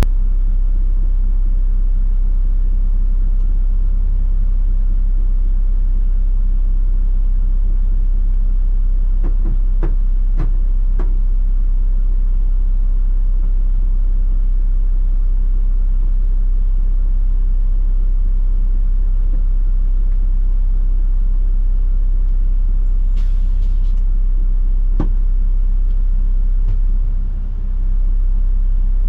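Heavy truck engine running steadily at one speed: a low, even rumble with a few light clicks about ten seconds in and again near the end.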